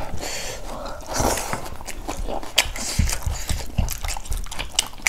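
Eating sounds: chewing and mouthing of food, with scattered small clicks and a few soft low knocks.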